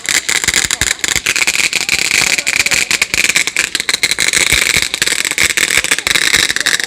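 Fireworks crackling: a dense, continuous stream of rapid sharp pops over a hiss.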